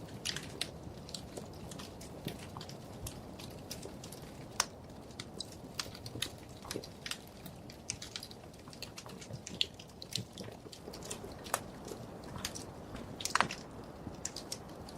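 Wood fire burning in a fireplace: irregular sharp crackles and pops over a soft steady rush of flame, with a louder pop about thirteen seconds in.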